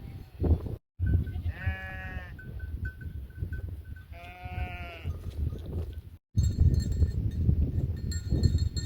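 A sheep bleating twice, each call about half a second to a second long, a couple of seconds apart, over a steady low rumble.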